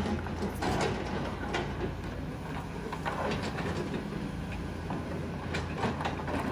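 Excavator engine running steadily, with irregular knocks and scrapes of stone being handled.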